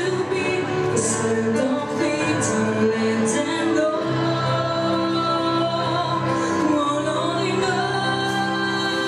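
A woman singing into a microphone over instrumental backing music, with long held notes.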